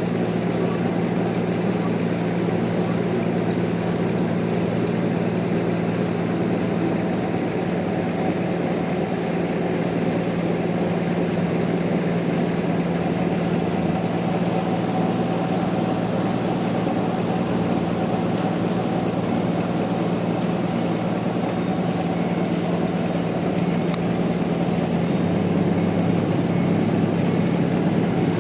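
Sawmill machinery running with a steady, even hum, its pitch shifting slightly near the end.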